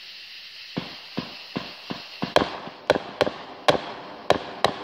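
Fireworks going off: a string of about a dozen sharp bangs at uneven spacing, starting about a second in and growing louder in the second half.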